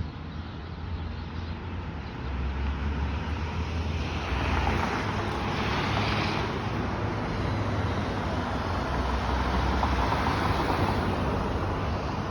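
Car on the move: a steady low rumble under a rushing hiss of road and wind noise, which grows louder about two seconds in and swells again midway.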